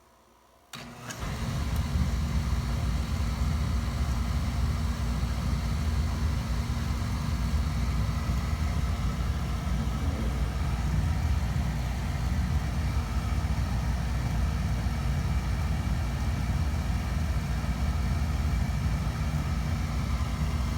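Oil burner on a sooted-up boiler starting about a second in, then firing steadily, its flame and blower mostly low-pitched. It is left running to burn out the soot in a wet, dirty firebox.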